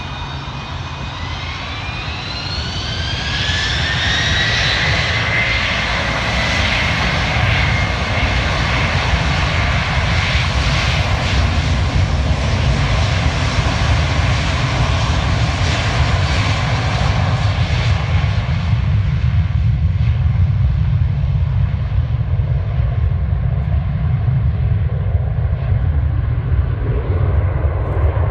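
The jet engines of a McDonnell Douglas MD-10-30 spool up. Whines rise in pitch over the first few seconds, then settle into a loud, steady roar with a deep rumble. The upper hiss fades in the last third.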